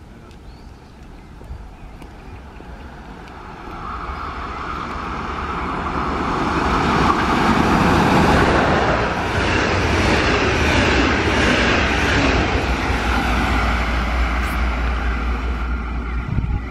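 DB Class 111 electric locomotive hauling double-deck regional coaches past on the main line. It grows louder over several seconds as it approaches, with a steady whine, and is loudest as the locomotive reaches the platform about eight seconds in, then the steady rush of the coaches' wheels on the rails follows.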